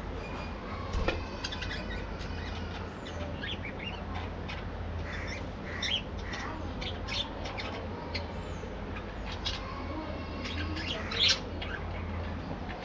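A colony of budgerigars chattering and squawking, with many short calls overlapping and a few louder sharp squawks, the loudest near the end, over a steady low hum.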